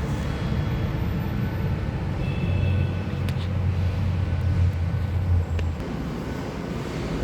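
Steady low rumble of motor vehicle engine noise, with a stronger low hum from about two and a half to six seconds in and a few faint clicks.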